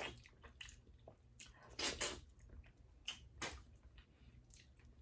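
Close-miked eating of boiled seafood: wet chewing and mouth smacks in irregular short bursts, the loudest about two seconds in and a few more around three seconds.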